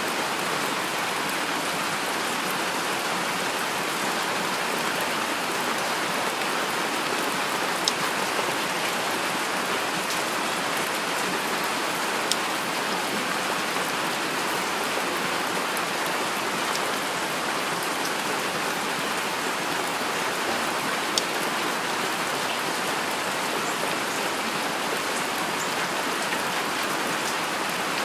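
Steady heavy rain falling as an even hiss. A few single drops land louder and closer, three times.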